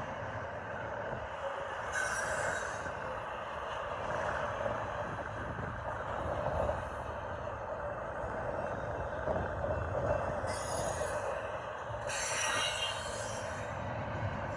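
Union Pacific intermodal freight cars rolling past: a steady wheel-on-rail rumble and clatter, with three short bursts of a higher hiss about two, ten and twelve seconds in.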